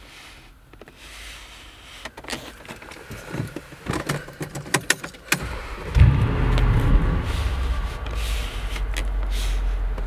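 Mercedes-AMG G63 Brabus 700's twin-turbo V8 starting up about six seconds in, flaring briefly and then settling into a steady idle rumble, heard from inside the cabin. Scattered clicks and knocks come before the start.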